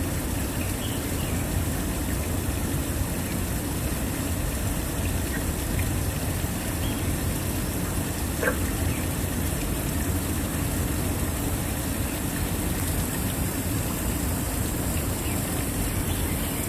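Waterfall rushing steadily. A single short tap is heard about halfway through.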